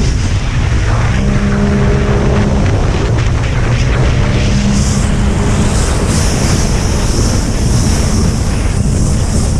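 Racing jet ski engine running hard at speed, its drone coming and going over a steady rush of water spray and wind buffeting the microphone.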